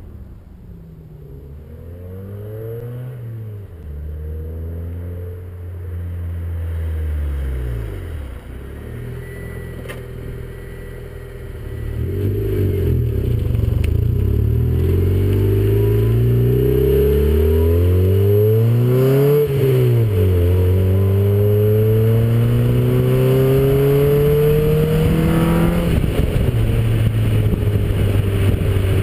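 Honda D16 VTEC four-cylinder engine running through a Mugen replica twin-loop exhaust on 2.5-inch piping, with a deep exhaust note. It is revved up and down several times at first. From about twelve seconds in it is louder and climbs in long pulls, each ending in a sudden drop in pitch.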